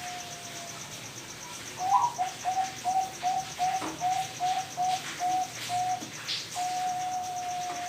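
Zebra dove (Bangkok perkutut) cooing: a held coo, then a rising note that breaks into a quick run of short coos, about three a second, ending on a long held coo. A steady high pulsing trill runs underneath.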